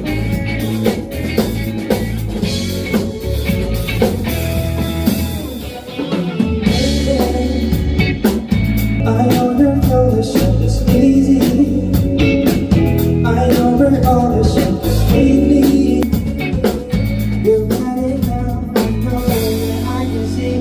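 Band music: a singer over electric guitar and drum kit, a rock song with a steady beat.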